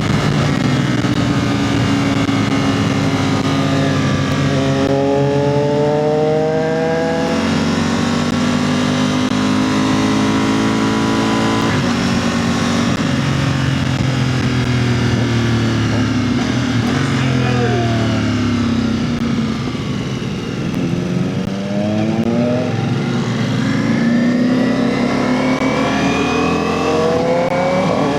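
Several motorcycle engines accelerating and slowing through the gears at speed, their pitch climbing and falling again and again over a rush of wind noise, with a brief dip in loudness about twenty seconds in.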